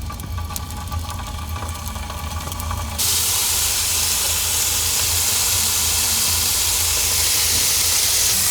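Raw chicken strips dropped into a hot, oiled frying pan: after a few light clicks, a loud, steady sizzle starts suddenly about three seconds in and carries on, super loud.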